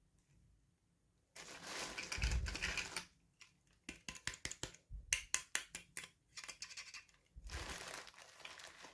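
Plastic toy packaging being unwrapped by hand: crinkling and rustling, then a quick run of sharp clicks as small pieces are handled, then more crinkling.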